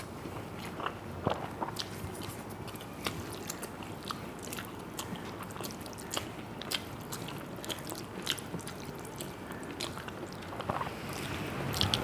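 A person chewing and biting close to the microphone: irregular wet smacks and sharp crisp clicks, the sound of eating panta bhat with fried potato, pointed gourd and fish.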